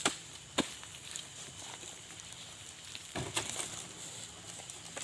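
A few sharp knocks and thuds of oil palm fruit bunches being loaded by hand into a truck. There is one at the start, one about half a second in, a small cluster around three seconds in, and the loudest at the very end.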